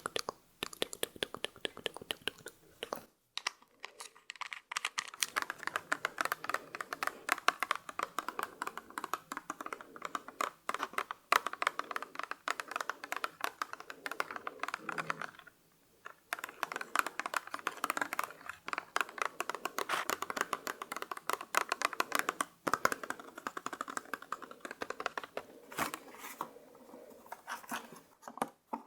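Close-miked ASMR handling of makeup and cosmetics: a dense run of rapid tapping and scratching clicks, with a brief pause about halfway.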